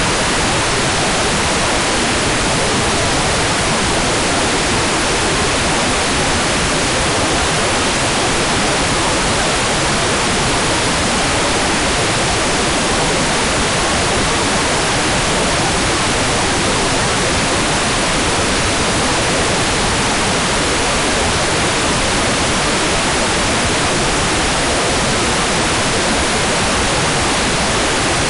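Hair dryer running steadily: a constant, even rush of noise that does not change.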